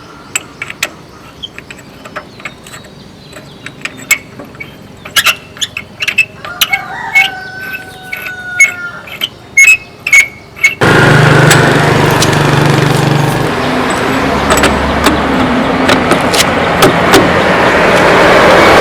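Scattered sharp metal clinks and knocks of tyre and tool work, with a rooster crowing faintly. About eleven seconds in, loud steady machine noise starts abruptly and carries on.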